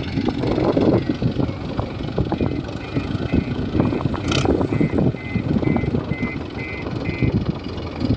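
Heavy diesel engine running with a rough low rumble, with a brief hiss about four seconds in and faint short high beeps repeating through the middle.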